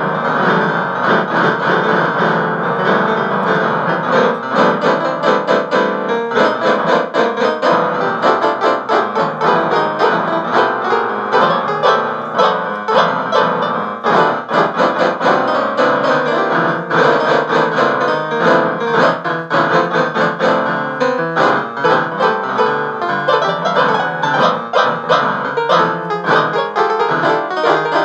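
Piano or keyboard music played continuously with many quick notes.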